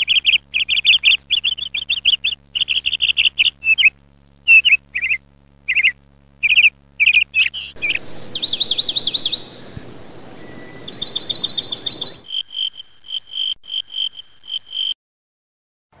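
Bird calls used as a soundtrack. For the first eight seconds there are quick repeated sharp chirps. Then a different recording comes in with fast trills over a background hiss, followed by a run of short clear notes, about three a second, that stop about a second before the end.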